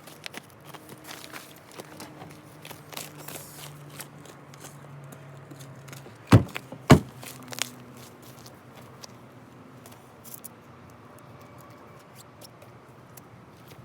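Campfire with scattered small crackles and clicks, and two sharp knocks about half a second apart a little past the middle.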